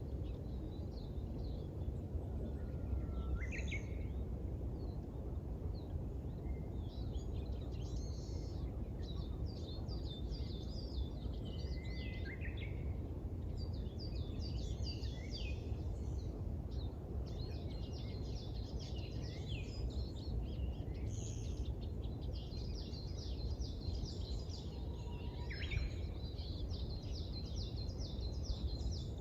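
Songbirds chirping and twittering in quick, repeated phrases, with several birds overlapping, over a steady low background rumble.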